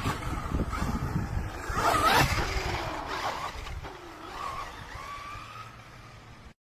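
Hyper Go H14BM V3 1/14-scale brushless RC truck driving, its electric motor whining up and down in pitch over rumbling tyre and ground noise. It is loudest about two seconds in, then fades away, and cuts off abruptly near the end.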